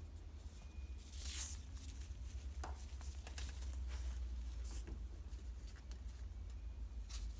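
Pet chicken pecking and scratching about at the microwave: light scattered taps with a brief scratchy rasp about a second in, over a steady low hum.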